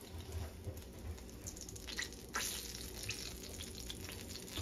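Floured sea bass fillets sizzling and crackling as they are laid into hot frying oil in a skillet. The crackling grows livelier about a second and a half in.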